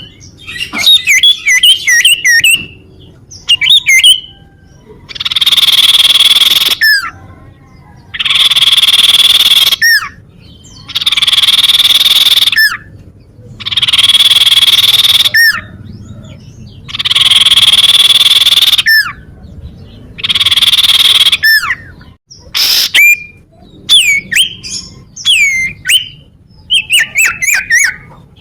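Cipoh (common iora) calling: quick series of sharp falling chirps, then six long harsh hissing notes in a regular series, then chirping again.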